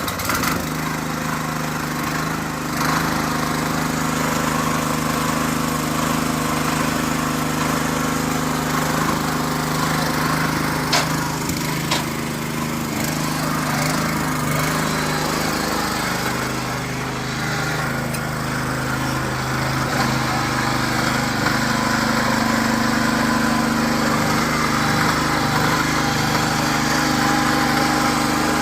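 Hand tractor (two-wheel walking tractor) engine running steadily while threshing finger millet, with a couple of sharp clicks about a third of the way in and the engine note shifting slightly about halfway.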